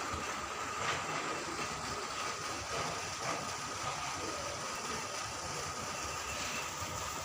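A machine running steadily, with a constant high hum over a low rumble and a few faint clicks.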